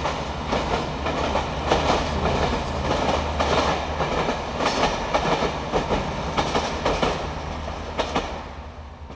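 Passenger train running along the track, its wheels clattering irregularly over the rails above a steady low rumble. The sound fades as the train moves away near the end.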